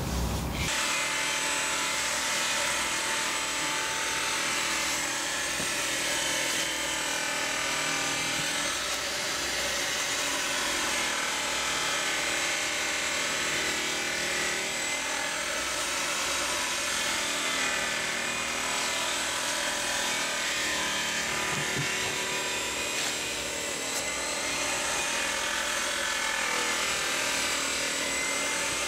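Handheld electric grinder running on fiberglass, starting about half a second in and running without a break, with a whining motor tone that wavers slightly as it works.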